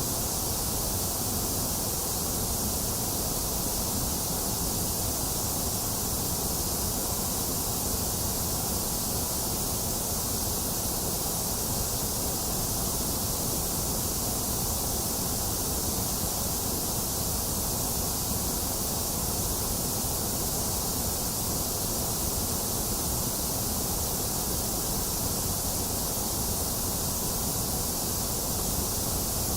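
A box fan running steadily together with continuous rain: an even, unchanging hiss, strongest in the highs, with a low rumble beneath.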